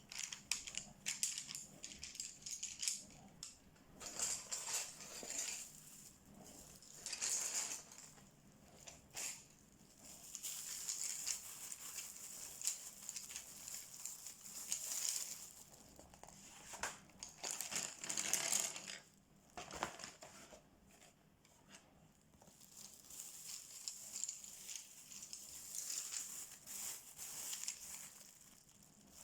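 Scratchy strokes of a coloring tool on paper, coming in stretches of a few seconds with short pauses between, and a longer pause about two-thirds of the way in.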